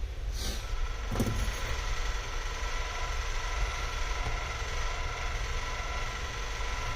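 Steady low mechanical hum with a faint high whine running through it, and two brief knocks about half a second and a second in.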